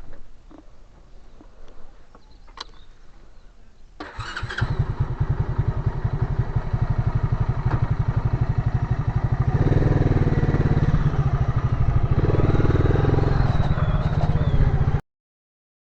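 A motorcycle engine starts about four seconds in and runs with an even rapid pulse, getting louder around ten seconds in, with its pitch wavering as it is revved. Before it, only a few faint clicks.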